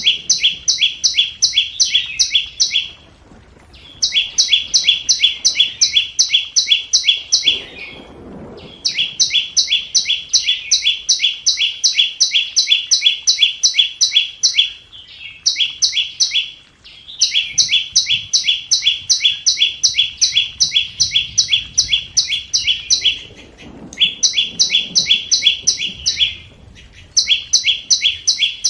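Scarlet-backed flowerpecker calling: sharp, high, clicking notes repeated about three to four times a second in runs of several seconds, with short pauses between runs.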